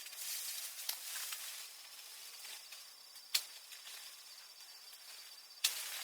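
Outdoor rural ambience: a steady high insect drone over a soft hiss of rustling, broken by three short sharp clicks, the last and loudest near the end.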